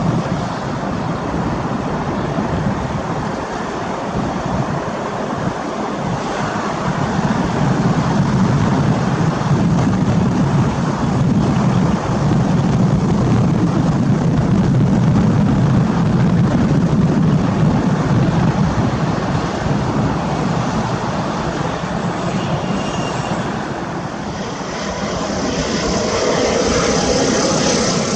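ATR 72-600 twin-turboprop airliner's engines running, a steady low drone that swells through the middle. A hiss rises near the end.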